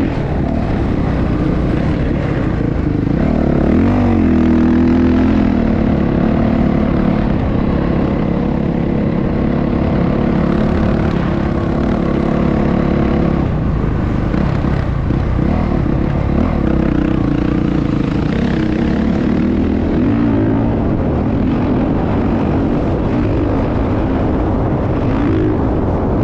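Motorcycle engine running loudly, its pitch rising and falling with the throttle a few seconds in and again near the end.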